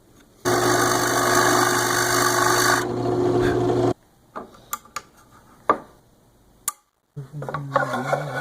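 An electric woodworking power tool running on wood: a steady motor hum with a rasping work noise over it. The rasping stops a little under three seconds in, and the motor cuts off about a second later. A few light knocks follow, and a wavering pitched sound comes near the end.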